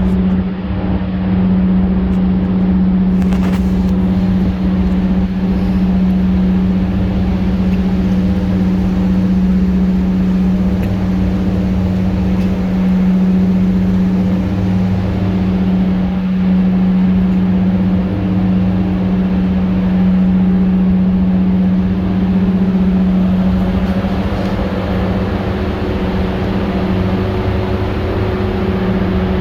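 Boat engine running steadily at an even speed, a constant droning hum over a low rumble.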